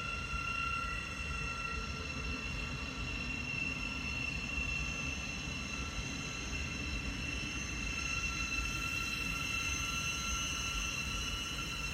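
A train running on the East Coast Main Line: a steady rumble with several high, steady ringing tones held over it, growing a little stronger near the end.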